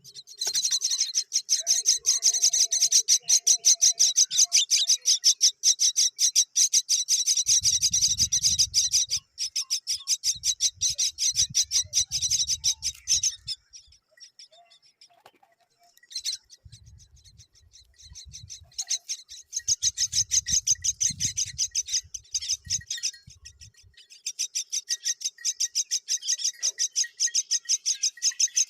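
Young myna birds chirping in long runs of fast, evenly repeated high calls, several a second, with short pauses between runs. Low rumbling noises sound under the calls at times.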